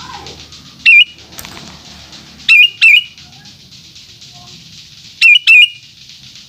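Sooty-headed bulbul (kutilang) giving five short, loud calls, mostly in quick pairs, over a faint fast pulsing chirr in the background.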